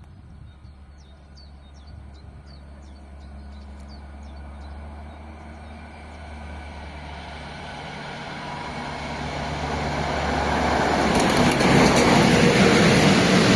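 PKP Intercity passenger train approaching on the rails, its rumble growing steadily louder until it is close and loud in the last few seconds. A few faint bird chirps sound in the first few seconds.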